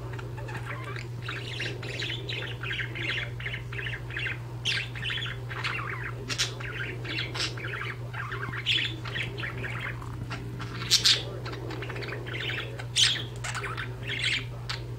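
Pet budgerigars chirping and chattering in quick, continuous runs of short calls, with a few louder calls about two-thirds of the way through and near the end, over a steady low hum.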